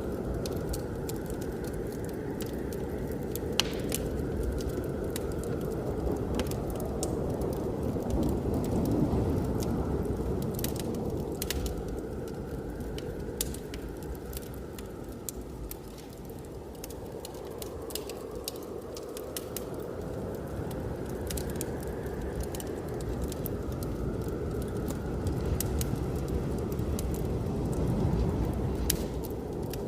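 Wood fire crackling with many sharp pops, over the steady rush of blizzard wind that swells and eases in slow waves several seconds long.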